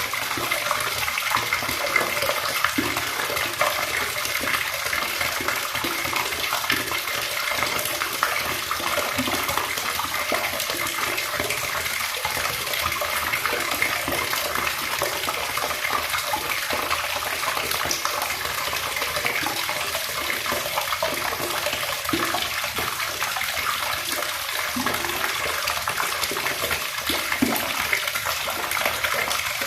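Water running steadily from a tap, a continuous stream splashing without pause.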